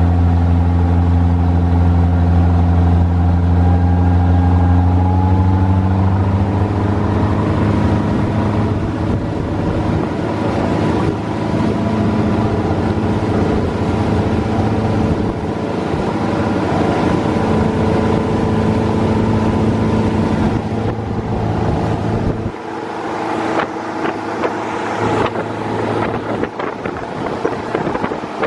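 Yanmar 4JH2-DTZ turbocharged four-cylinder marine diesel running under way, its note stepping up in pitch about five seconds in as it is throttled up. Rushing wind and water noise grows over the engine, and about 22 seconds in the deep engine note falls away, leaving mostly gusty wind and water.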